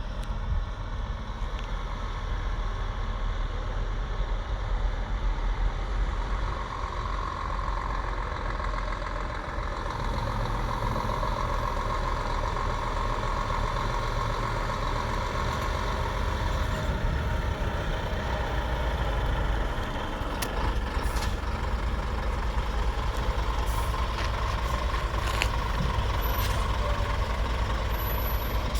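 Scania G490 truck's 13-litre six-cylinder diesel engine running steadily, with a few short clicks in the second half.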